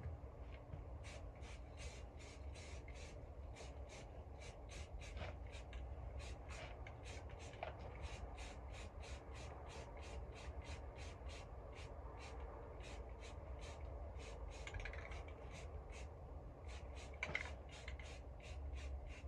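Rapid, even scratchy strokes, about three a second, of the metal knotter parts being scrubbed by hand, as when brushing rust off.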